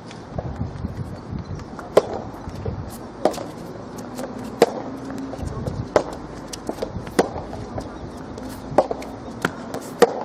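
Soft tennis rally: sharp racket strokes on the rubber ball, a hit roughly every second and a quarter, with fainter bounces between them.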